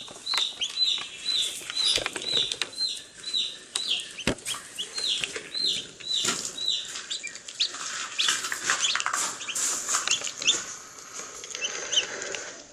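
Baby chicks peeping: a steady run of high, falling peeps, about two or three a second, for the first few seconds, then several chicks peeping over one another. Scattered sharp taps and rustles run underneath.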